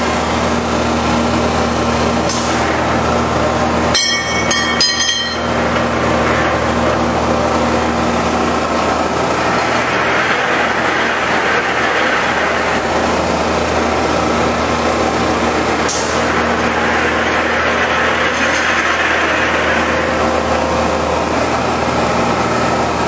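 Planetary floor grinder running: a steady motor hum under a dense grinding noise from the heads working the floor, which swells twice.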